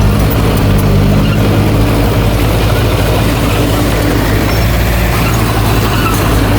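Heavy diesel engine of earthmoving equipment running steadily and loud. Its even hum wavers for a few seconds in the middle, then settles again.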